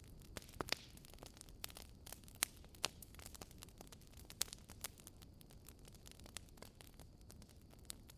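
Wood fire burning in a fireplace: irregular sharp crackles and pops over a low steady hiss, with a few louder pops.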